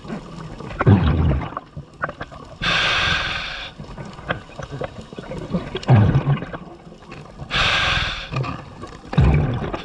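Scuba diver breathing through a regulator underwater: a rumbling rush of exhaled bubbles followed by the hiss of an inhalation through the demand valve, the cycle repeating about every five seconds, three exhalations and two inhalations.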